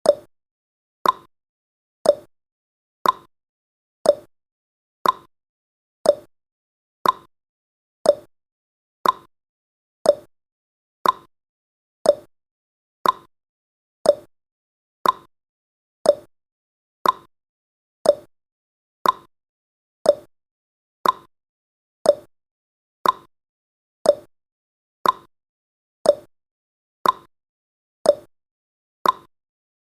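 Clock-style ticking sound effect of a countdown timer, one sharp tick each second, alternating between a lower and a higher pitch like a tick-tock.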